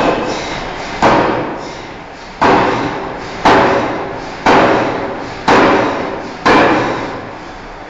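Forging hammer striking a steel bar: seven heavy blows at about one a second, each followed by a short ring-out over the steady din of the shop.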